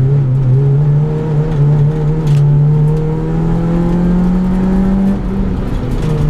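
A rally car's engine heard from inside the cabin, pulling hard under acceleration with its pitch rising slowly for about five seconds, then falling as the revs drop and settling lower near the end.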